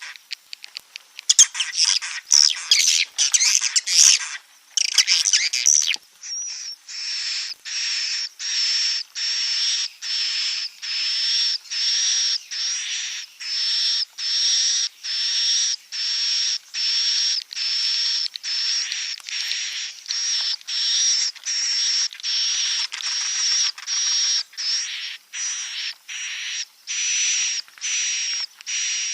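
Recorded swiftlet calls of the kind played to lure swiftlets into a nesting house. First a few seconds of dense, rapid chittering and clicks, then a change to a regular series of raspy chirps, each carrying a high whistled tone, repeating about every three quarters of a second.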